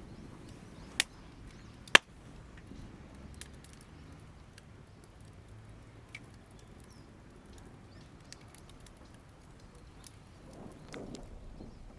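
Campfire of damp firewood crackling, with two sharp loud pops about one and two seconds in and scattered small crackles throughout.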